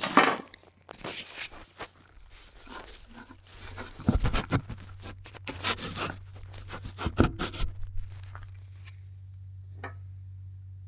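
Irregular rustling, scraping and knocking of equipment being handled, with a steady low hum coming in about halfway through.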